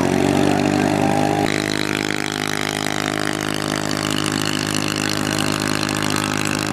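Homemade paramotor's 149 cc motorcycle engine running steadily at high revs, with an abrupt change in its pitch about one and a half seconds in.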